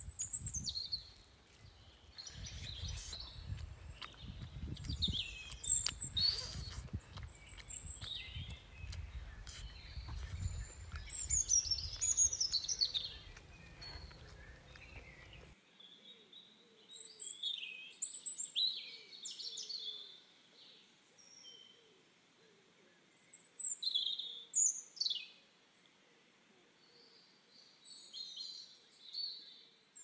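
Wild birds chirping and calling, with many short high chirps and quick downward-sweeping whistles. Under them in the first half runs a low rumbling noise with a few knocks, which cuts off abruptly about halfway through.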